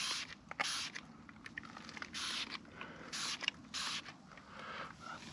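Trigger spray bottle squirting five short hissing sprays onto the car's paintwork, spacing out unevenly over a few seconds: a detailing chemical, tar and glue remover, being applied to spots of tar.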